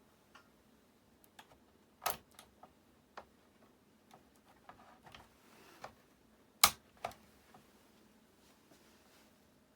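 Scattered sharp clicks and light knocks from handling equipment on a workbench, the two loudest about two seconds in and just before seven seconds in.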